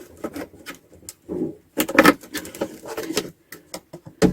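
A knife cutting and scraping at a lid: a run of irregular clicks and short rasps, with a sharper knock near the end.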